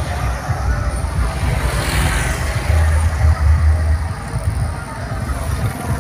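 Heavy, pulsing bass booming from a large mobile sound system, with a hissing swell about two seconds in.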